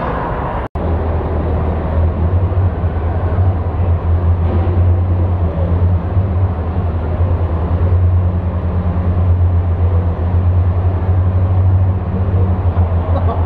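Tractor engine running steadily at an even, low pitch while pulling a weighted sled, with a short break in the audio just under a second in.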